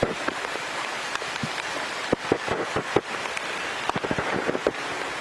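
Heavy rain falling steadily, with many sharp drops pattering on hard surfaces.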